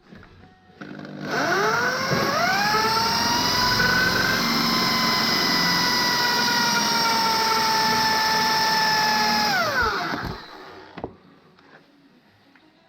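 Handheld power tool spinning up to speed, running steadily for about eight seconds, then winding down.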